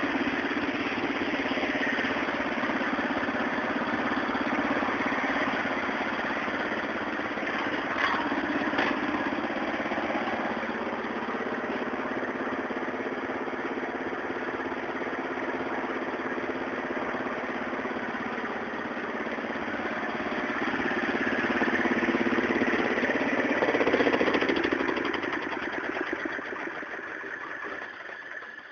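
Small engine of a restored Ford 100 garden tractor running steadily; it grows louder about three quarters of the way through, then fades away near the end.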